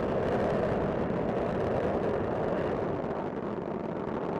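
Space Shuttle Discovery's solid rocket boosters and main engines during ascent: a steady, rough rocket rumble.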